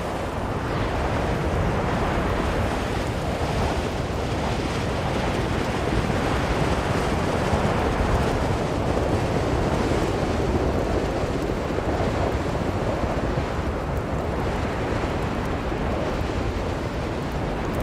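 Blizzard wind blowing hard and steadily, swelling and easing slowly in gusts.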